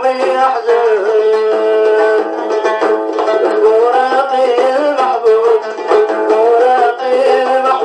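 Music: a plucked string instrument playing a melody, with a line that glides up and down between held notes.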